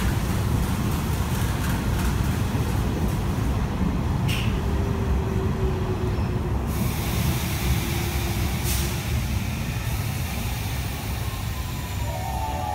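Nishitetsu 6050-series electric train with a Mitsubishi SiC hybrid VVVF inverter slowing into a platform: a steady low rumble of wheels on rail, with the inverter's faint whine falling in pitch as the train brakes.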